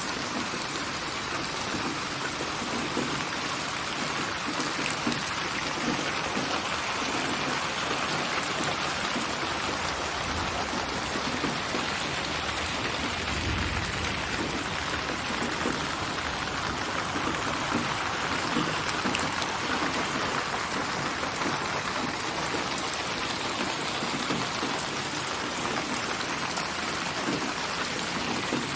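Steady rain, drops pattering on a surface, with a brief low rumble near the middle.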